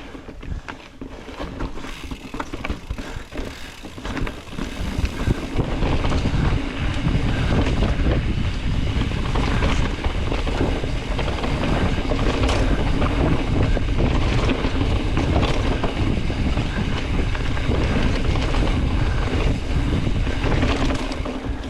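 Wind buffeting the microphone and a mountain bike rolling fast down a dirt trail, building over the first few seconds to a steady loud rush, with occasional sharp clicks and rattles from the bike.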